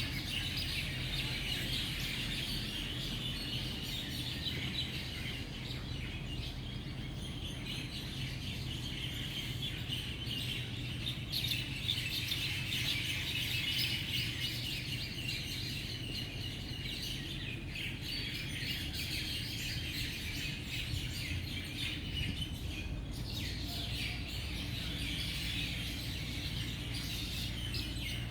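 Dense morning chorus of many birds chirping and calling at once, continuous and overlapping, over a low steady background rumble.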